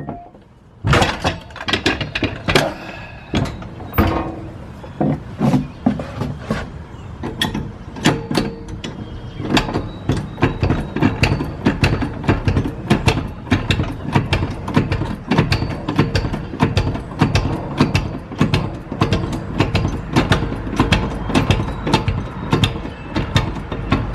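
Hand socket ratchet clicking in repeated strokes while working bolts on a walk-behind mower. The clicks are scattered at first and settle into a steady run of several clicks a second from about halfway through.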